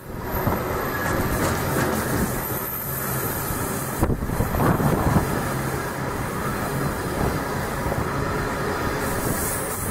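A train running through a station, a steady rumble of wheels on track with some engine tone underneath. The sound changes abruptly about four seconds in.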